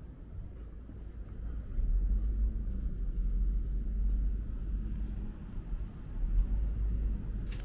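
Low rumble of a vehicle passing close by on the street, swelling up about two seconds in and easing off near the end, with a faint steady engine hum.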